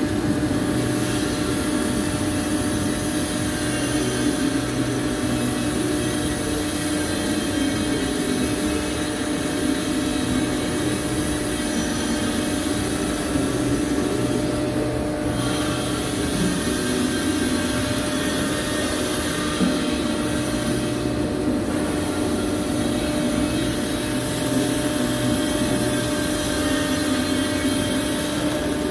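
A steady machine drone with a constant hum over a hiss, running unbroken and evenly throughout.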